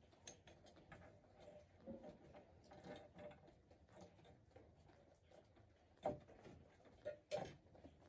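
Faint, scattered clicks and light taps of small hard parts and tools being handled, with two louder short knocks about six and seven and a half seconds in.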